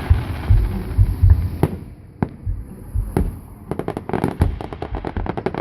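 Aerial fireworks going off: deep booms of bursting shells, then a few single sharp bangs, and from about three and a half seconds in a dense, rapid crackling.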